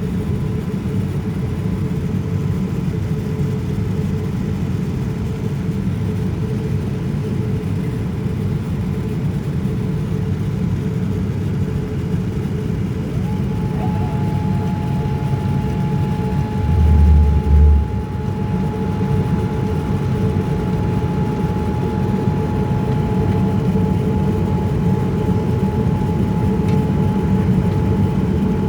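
Steady cabin rumble inside a Boeing 787-9 airliner, with a constant hum tone. A second tone joins about halfway through, and a brief low double thump comes a little after.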